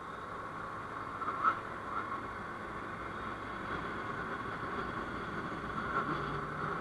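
Steady traffic and road noise from a vehicle being driven, slowly growing louder, with a couple of brief ticks about one and a half and two seconds in.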